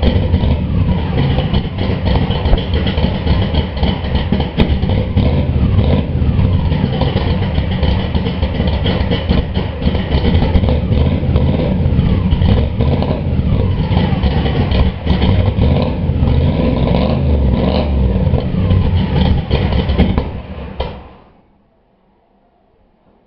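Chevrolet Monte Carlo SS engine running through dual exhaust with a pair of one-chamber Flowmaster mufflers, a deep, aggressive exhaust note that rises and falls in pitch as it is revved. The sound drops away near the end.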